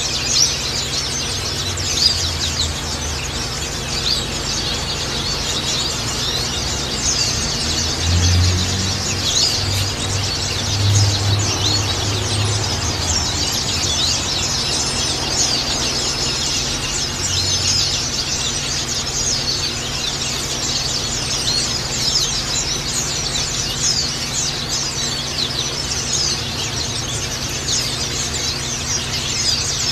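A flock of white-eyes (pleci) twittering, many quick high chirps overlapping without a break, as a lure recording meant to set caged white-eyes singing. A low hum swells briefly about eight to thirteen seconds in.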